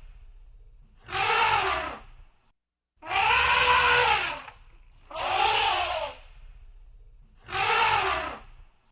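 Elephant trumpeting: four loud, brassy calls about a second long, coming roughly every two seconds, each rising and then falling in pitch.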